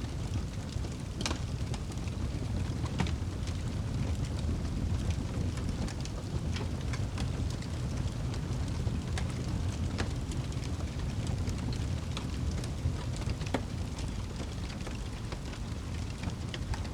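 Wood fire burning in a fireplace: a steady low rumble of flames with irregular sharp crackles and pops from the burning wood, a few louder pops standing out.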